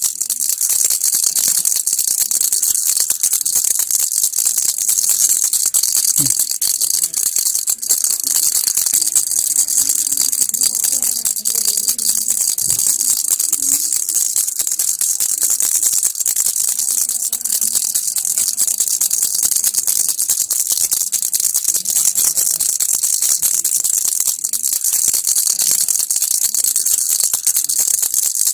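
Baby rattle (kilukki) shaken continuously: a dense, unbroken rattling of small loose pieces, bright and hissy, without pause.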